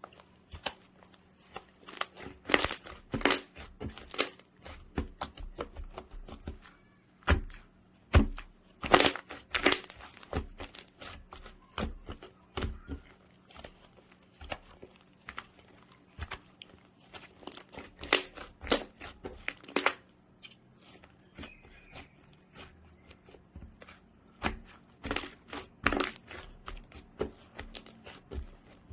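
Hands squishing and stretching a soft clay-mixed slime, making irregular sticky pops, clicks and crackles.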